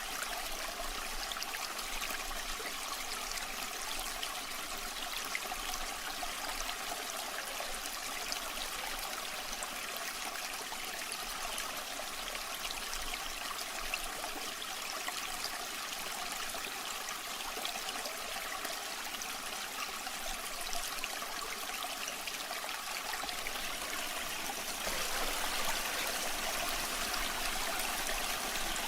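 Waterfall water running steadily, a little louder for a few seconds near the end.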